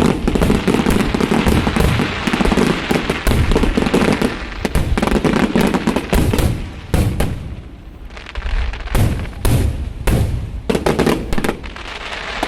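Aerial fireworks going off: a dense, rapid run of crackling bangs and shell bursts that thins out about eight seconds in, followed by further scattered bangs.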